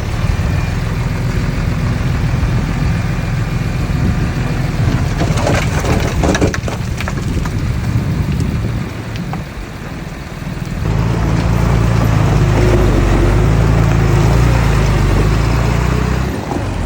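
Diesel engine of heavy earthmoving machinery running, with a stretch of rough crunching noise around five to seven seconds in. About eleven seconds in the engine note grows louder and stronger, as under load, and drops off briefly near the end.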